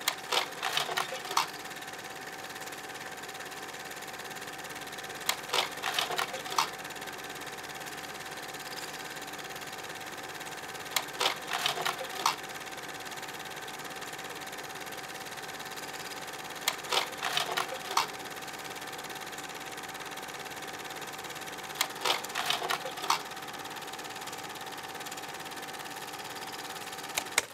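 Slide projector running: a steady fan hum, broken about every five and a half seconds by a short cluster of clicks and clunks as each slide changes.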